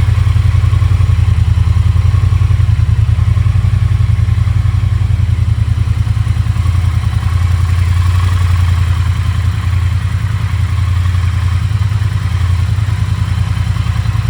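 2022 Triumph Bonneville T120's 1200 cc parallel-twin engine idling steadily just after a cold start, pipes still cold, with an even low exhaust pulse and no revving.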